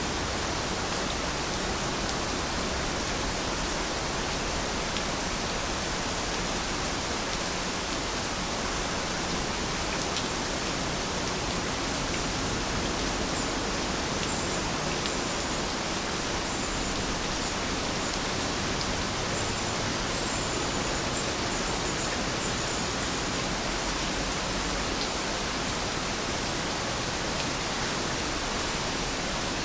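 Steady rainfall, a constant even hiss of many drops with no let-up. A few faint high chirps come through about halfway through.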